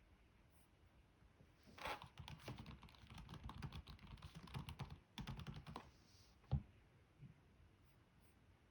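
Computer keyboard typing, a quick run of keystrokes for about four seconds, then a single louder knock.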